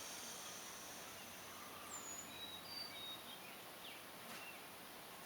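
Faint songbird singing in the background over quiet room hiss: one short high phrase about two seconds in, a falling whistle followed by a few brief higher notes.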